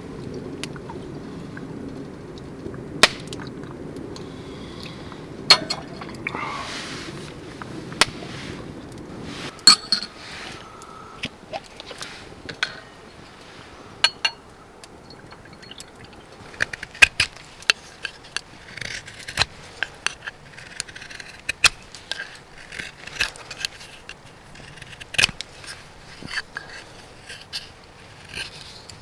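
Sharp clinks and knocks of camp cookware and utensils being handled, scattered throughout and coming thicker in the second half. A low steady rumble underneath stops about ten seconds in.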